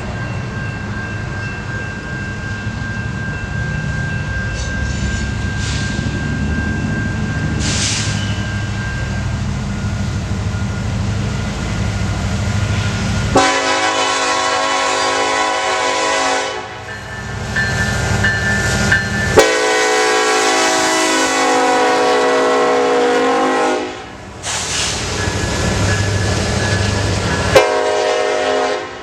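Freight train led by a BNSF SD70ACe diesel locomotive, a steady low rumble of the approaching train, then the locomotive's horn sounding three blasts: about three seconds, about four seconds, then a shorter one near the end.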